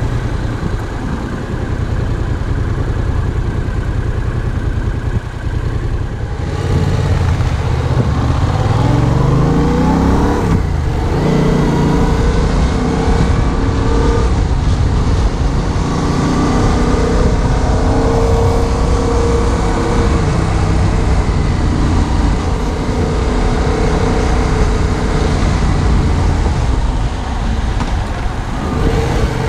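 A 2015 Yamaha MT-07's 700cc parallel-twin engine ticks over low and steady at first. About six seconds in it pulls away, its pitch rising and then dropping at a gear change. It then runs steadily at town speed, easing off briefly near the end.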